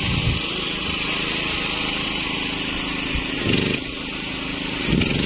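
A small engine runs steadily under a constant high hiss, with a few brief low bumps. It is most likely the portable generator powering the welder at work on the excavator's torn bucket.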